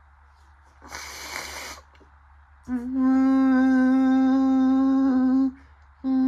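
Washing machine at the end of its final spin: a brief hiss about a second in, then a steady, unwavering hum that starts abruptly, runs for about three seconds, stops, and starts again near the end.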